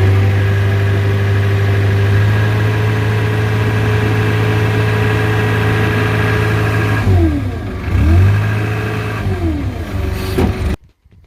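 Diesel engine running loud and steady at high revs, its speed dipping and recovering twice near the end as the throttle is worked; it starts and stops abruptly.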